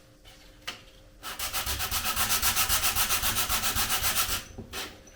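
A 3D-printed plastic washi cutter being sanded by hand, with rapid back-and-forth strokes of abrasive on plastic for about three seconds from a second in, to smooth away the print's surface pattern.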